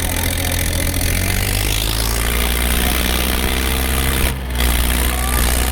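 Tractor engine running at a steady idle, with a brief dropout about two thirds of the way in.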